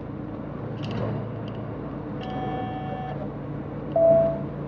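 Semi-truck cab noise while driving: a steady engine hum with road noise. About two seconds in a faint pitched tone sounds for under a second, and about four seconds in a short, louder single beep follows.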